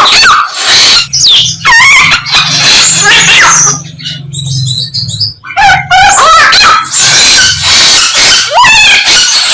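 A samyong songbird singing loudly, a fast run of whistles, trills and harsh notes imitating the calls of other birds. About four seconds in, the song drops briefly to softer, high chirps before it resumes.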